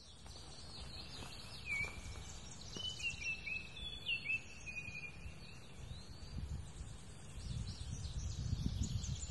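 Birds singing, short whistled notes that glide in pitch and quick chirps, over a low rumble of outdoor background noise that grows louder near the end.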